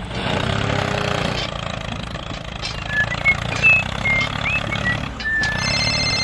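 Tractor engine idling steadily, with a few short high chirps in the middle. About five and a half seconds in, a mobile phone starts ringing over it.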